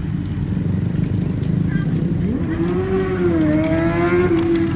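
Motorcycle engines idling, then one is revved up about two seconds in and held at high revs.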